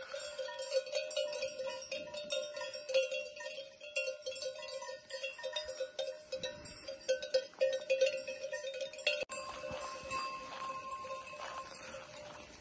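Many bells worn by a flock of sheep, clanging irregularly and overlapping as the animals move. The jangle thins out after about nine seconds.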